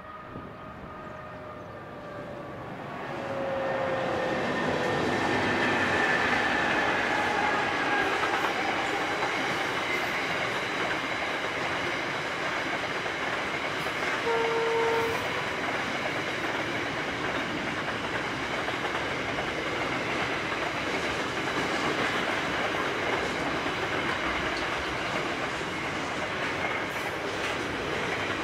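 Container freight train led by two CSR-class diesel locomotives: the horn sounds faintly as they approach and dies away within the first few seconds. The locomotives pass loudly from about three seconds in. A long, steady rumble and clickety-clack of container wagons rolling by follows, with a brief tone about halfway through.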